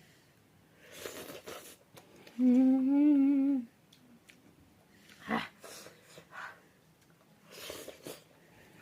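A woman hums one steady 'mmm' of about a second, a couple of seconds in, while eating spicy ramen. Short soft eating sounds come before and after it.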